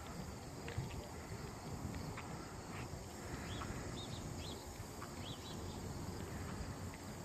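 Faint outdoor ambience: a steady low noise with a few faint, short, high chirps around the middle.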